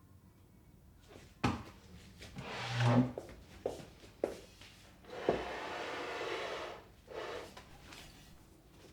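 Household objects being handled: a few light knocks and, about five seconds in, a longer sliding rub like a drawer or door being moved.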